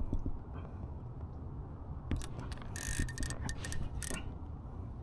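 Baitcasting reel's drag clicking as a hooked salmon pulls line off the spool, in short ticking runs, the densest about two and three seconds in, over a low rumble.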